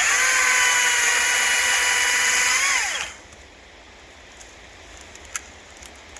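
ECHO DCS-2500T 56 V battery top-handle chainsaw running at full speed with a steady high whine for about three seconds while cutting through a branch, then falling in pitch as the chain spins down. A few faint ticks follow.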